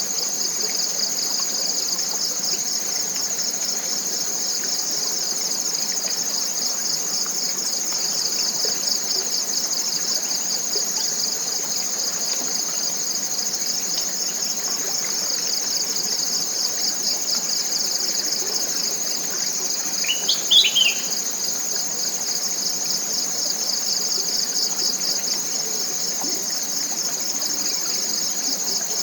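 Steady chorus of forest insects: a fast pulsing trill with a thin steady whine above it. About two-thirds of the way through, a bird gives a short burst of quick rising chirps.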